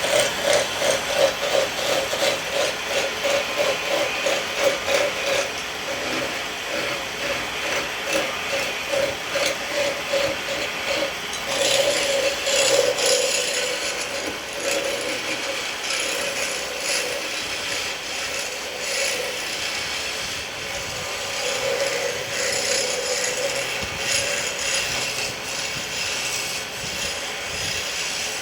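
Hand tool working wood in quick, even strokes, about three a second, that slow and turn to a more uneven scraping about halfway through.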